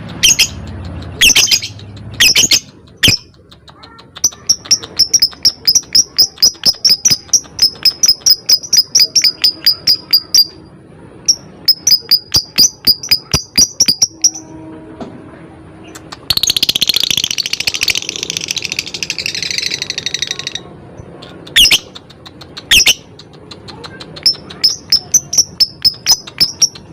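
Lovebird calling in runs of sharp, rapid chirps, about four to five a second (the 'ngetik' ticking song), broken by a harsh, raspy chatter of about four seconds in the middle and a few single chirps.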